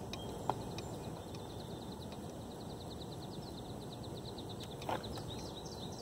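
A bird trilling: a long run of quick, repeated short high notes, about seven or eight a second, with more notes near the end, over a steady low background noise. Two short sharp knocks come about half a second in and near five seconds, the second the louder.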